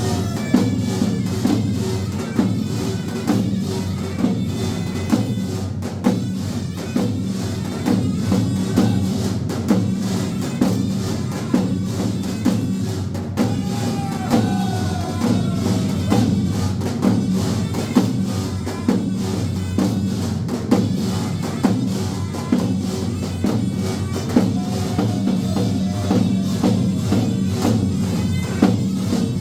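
Turkish halay folk dance music: a steady drum beat under a gliding melody line.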